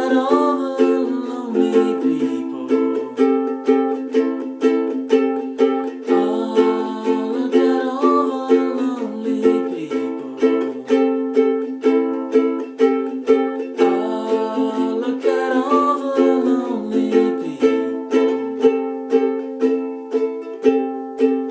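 Ukulele strummed in a steady rhythm of chords, with a last chord near the end left to ring out and fade.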